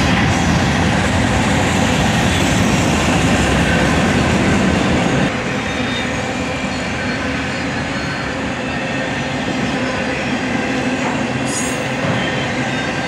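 Freight cars of a Union Pacific mixed freight train rolling past close by: a steady rumble of steel wheels on rail, with thin squealing tones from the wheels, easing slightly about five seconds in.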